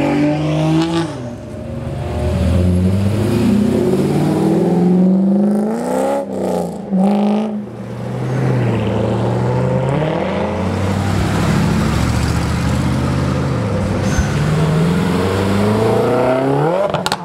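Cars, among them a Corvette convertible and a white Subaru WRX, accelerating past one after another, their engines revving up and dropping back repeatedly. There is a choppy stretch about six seconds in and a quick rise in revs near the end.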